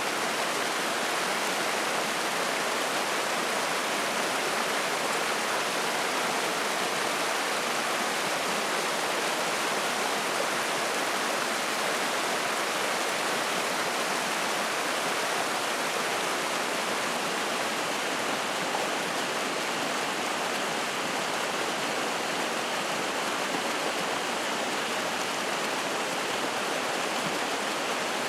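Mountain stream rushing and splashing over rocks, a steady, even sound of flowing water.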